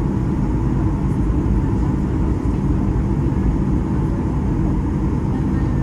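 Steady drone of a Boeing 737-800's engines and rushing air heard from inside the passenger cabin in flight, loud, low and unbroken.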